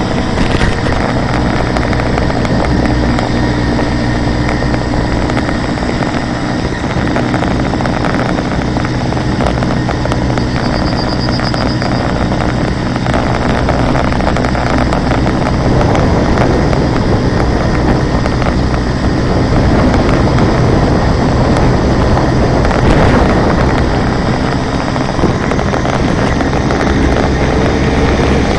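Hercules Prima 5S moped's small two-stroke engine running steadily, with a pitch rise near the end. It is making the odd noises that the owner cannot place.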